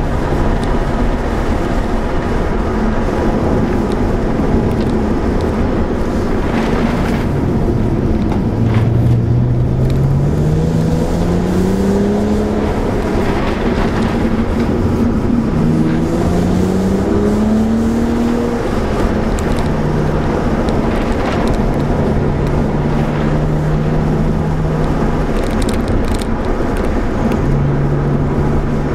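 BMW 135i's turbocharged straight-six heard from inside the cabin, running steadily under road noise. Its pitch rises twice as the car accelerates, about nine and sixteen seconds in, then settles back to a steady drone.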